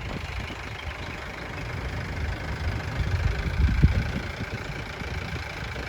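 Safari jeep's engine running at low revs, a steady low rumble that swells briefly a little before four seconds.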